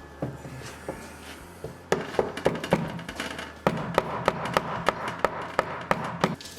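Small hammer tapping the handle pins through a knife's handle scales: a run of sharp taps, about three to four a second, starting about two seconds in with a short pause partway.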